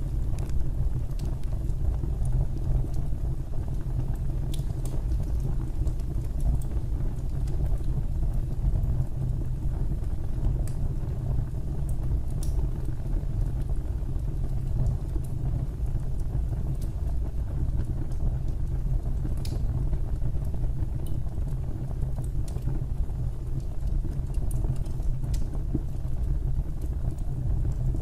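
Wood fire burning in a fireplace: a steady low rumble with sparse sharp crackles every few seconds.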